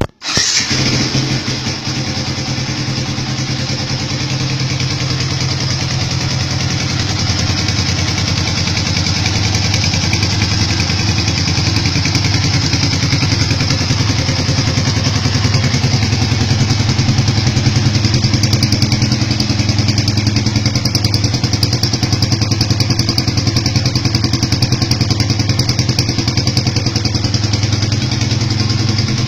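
Old Yamaha Vixion's 150 cc single-cylinder engine idling steadily through its stock muffler, fitted with an added silencer and a stainless Powerbomb header pipe.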